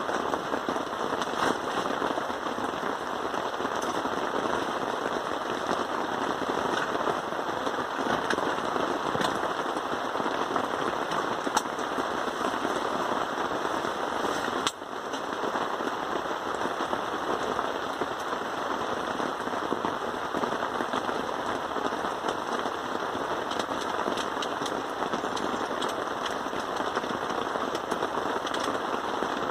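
Heavy rain falling steadily, with many sharp individual drop hits on a nearby surface.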